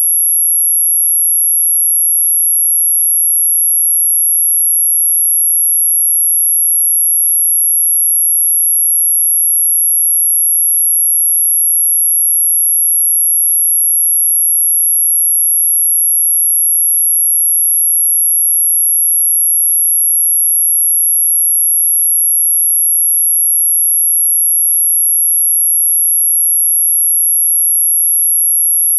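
A single steady, very high-pitched pure tone held without a break, a synthetic 'anti-mosquito' repellent tone. It is high enough that many listeners, especially older ones, hear it only faintly or not at all.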